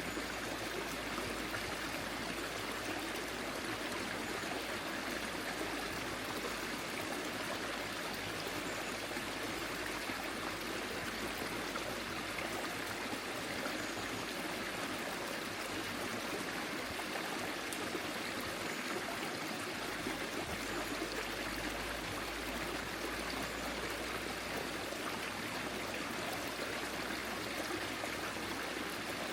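Small forest stream flowing and trickling over stones, a steady even rush of water.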